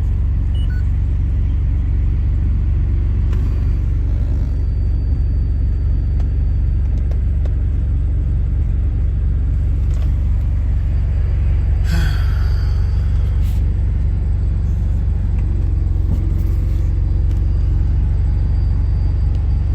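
Car engine idling with a steady low rumble, with a brief rustle about twelve seconds in.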